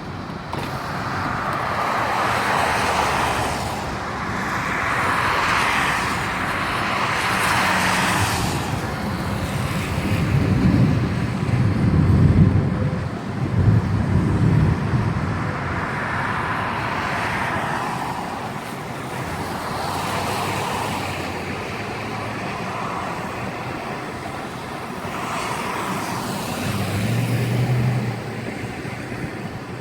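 Severe thunderstorm downburst: storm wind and rain noise surging and easing in gusts, with deep rumbles loudest about twelve to fourteen seconds in.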